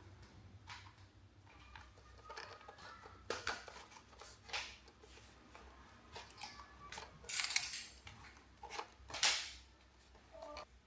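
Handling noise from plastic toys: irregular clicks, taps, rattles and rustles, with a few louder scrapes in the second half.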